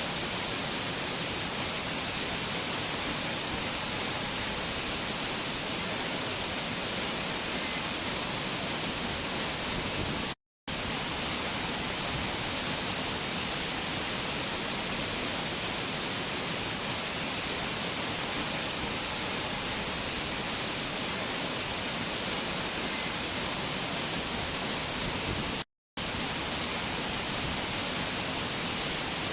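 Waterfall: a steady, hissy rush of falling water. It cuts out to silence for a split second twice, about a third of the way in and near the end.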